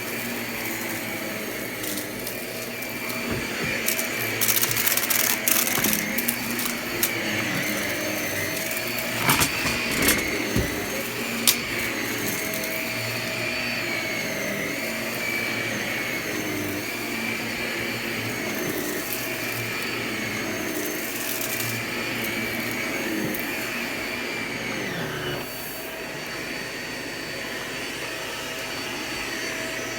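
Vacuum cleaner running steadily, its motor whine wavering slightly. Bursts of crackling come from crunchy debris being sucked up, a few seconds in, about ten seconds in and around twenty seconds in.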